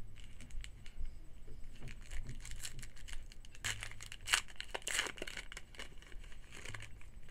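Foil wrapper of a trading card pack being torn open and crinkled: a run of crackling that is densest and loudest in the middle.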